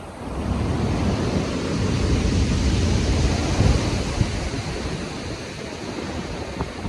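Storm-driven ocean waves: a wave breaks and its surf swells to a peak mid-way, then eases off, with wind rushing over the microphone.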